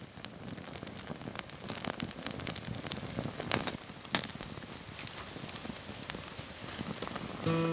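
Campfire crackling, with sharp irregular pops over a steady hiss. Music comes in right at the end.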